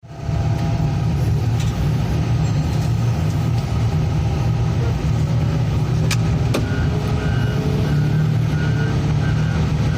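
A heavy engine running steadily with a deep rumble, a couple of sharp clicks about six seconds in, and faint pulsed beeping from about seven seconds in.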